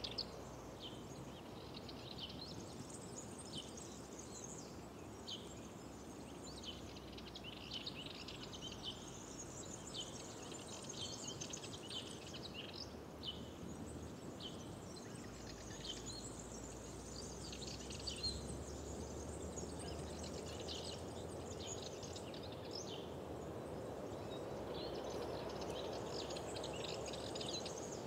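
Many small songbirds chirping and trilling continuously, over a steady background rush of wind or water that grows a little louder near the end.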